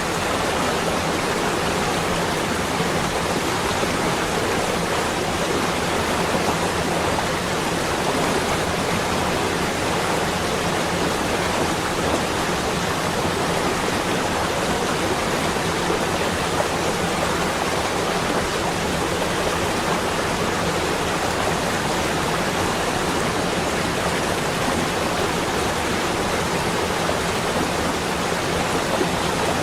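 Steady, even rushing noise that holds the same all through, with no separate sounds standing out.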